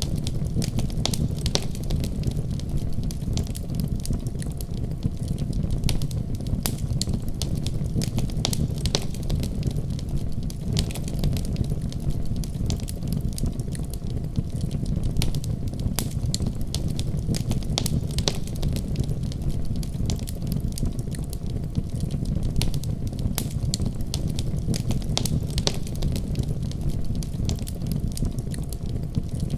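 Wood fire crackling steadily, with frequent sharp pops and snaps over a low, even rumble of the flames.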